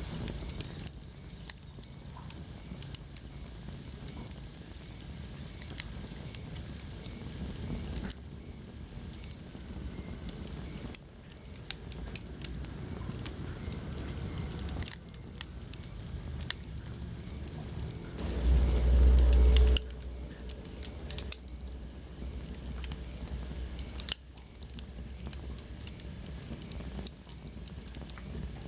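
Wood fire burning with steady crackling and scattered sharp pops. About two thirds of the way through, a louder low rumble lasts for a second or two.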